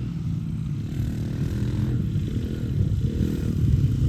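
Small dirt bike engine running, getting louder and bending up in pitch toward the end.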